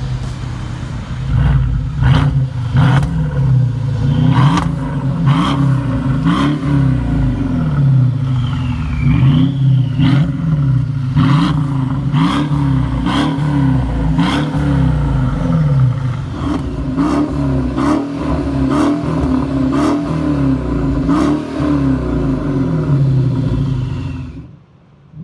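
Mercedes E550's 4.7-litre twin-turbo V8 through Kinney's Tunnel Ram performance mufflers, revved up and down repeatedly, about once a second, with sharp cracks between revs. The sound cuts off near the end.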